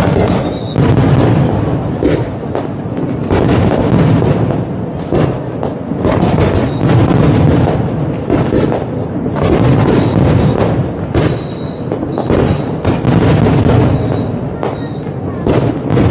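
Fireworks display in full swing: shells bursting in quick, overlapping succession, dense bangs and booms with loudness swelling and dipping every second or two.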